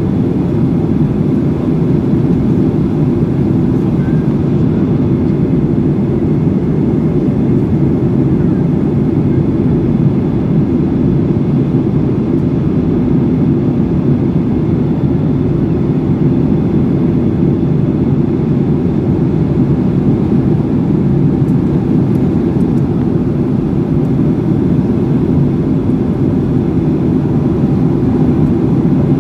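Steady drone of an airplane's engines and rushing air, heard inside the passenger cabin in flight, deep and unchanging.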